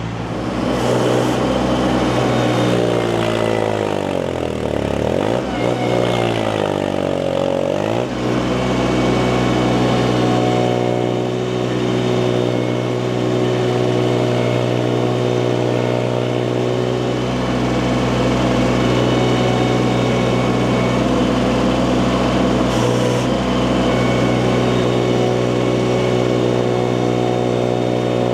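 Mini skid steer's engine running hard, bogging down under load twice a few seconds in and picking back up each time, then running steadily.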